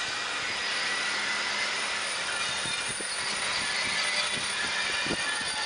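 Passenger train running past at a distance: a steady rushing noise with a faint hum underneath and a few soft knocks about halfway through and near the end.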